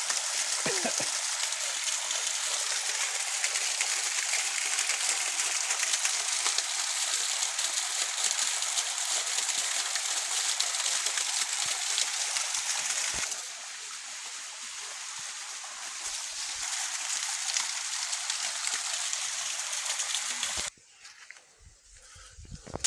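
Steady rush of flowing water, an even hiss with no pauses. About 13 s in it turns duller and quieter, and it drops away almost completely near the end.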